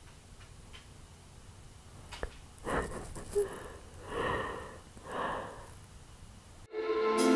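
A woman crying quietly, sniffling and drawing several shaky breaths one after another. Soft music cuts in suddenly near the end.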